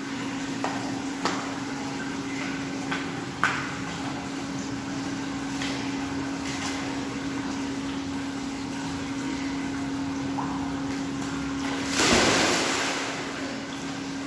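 Indoor swimming pool: a steady hum with a few light clicks, then a rush of water about twelve seconds in that lasts a second or two.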